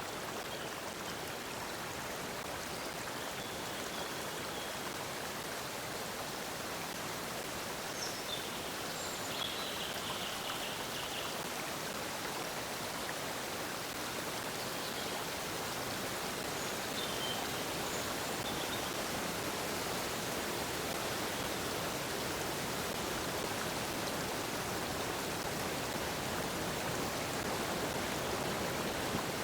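Water flowing steadily in a stream, a constant even rushing. A few faint high chirps come through, the clearest a short trill about ten seconds in.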